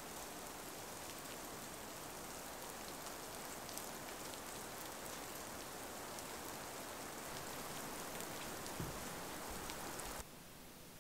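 Steady rain falling, an even hiss with scattered faint drop ticks; it stops abruptly about ten seconds in.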